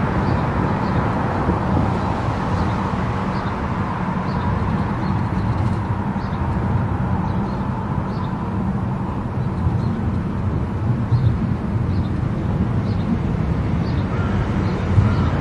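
Car travelling at highway speed: steady road, tyre and engine noise.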